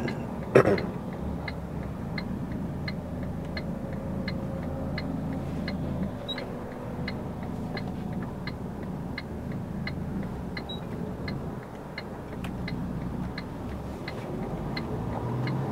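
Truck cab interior: the diesel engine hums steadily while the turn-signal indicator ticks regularly, about three ticks a second, as the truck makes a left turn.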